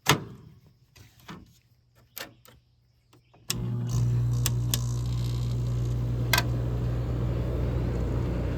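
A few clicks, then about three and a half seconds in a 14,000 BTU Kenmore window air conditioner starts up and runs steadily: fan blowing with a low, even compressor hum. It runs pretty quiet.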